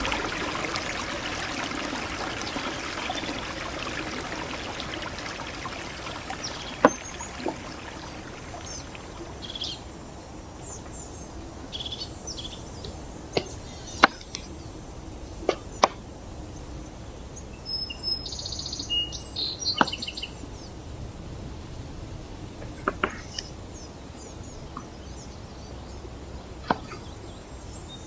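Outdoor ambience: a hiss fades away over the first several seconds, then birds chirp now and then over a faint steady insect drone. About nine sharp clicks are scattered through the rest.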